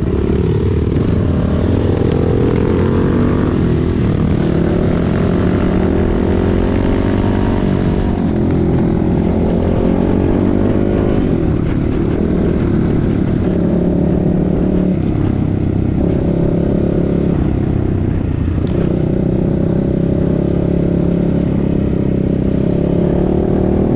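Enduro motorcycle engine running under throttle, its pitch rising and falling again and again as it revs and eases off.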